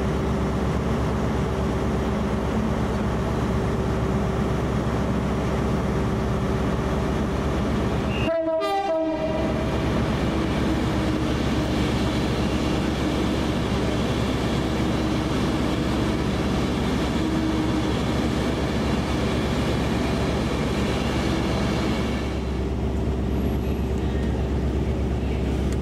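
A train running through the station at close range: a loud, steady rumble with a held droning tone over it. The sound breaks off for under a second about eight seconds in, and the higher part of the noise thins near the end.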